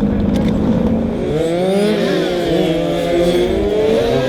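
Several radio-controlled model racing cars' motors whining together, each pitch rising and falling as the cars speed up and slow down. The overlapping whines grow in about a second and a half in, over a steady low hum.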